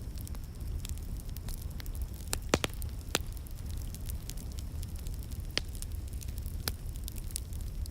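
Wood fire crackling in a fireplace: a steady stream of small crackles with a few louder sharp pops, over a steady low rumble.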